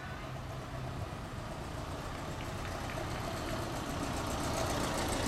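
Motorcycle engine running, its sound growing steadily louder as the bike comes closer.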